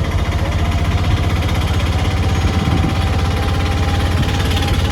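A vehicle's engine running steadily with a low, even throb, heard from on board while riding.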